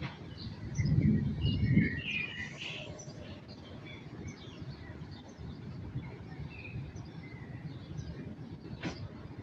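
Birds chirping on and off, with a low rumble about a second in and a single sharp click near the end.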